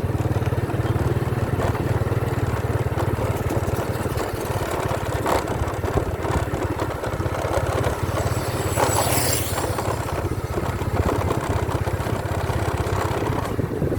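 Motorcycle engine running steadily at an even pace while the bike is ridden along, with a steady low hum. A brief rush of high-pitched noise comes about nine seconds in.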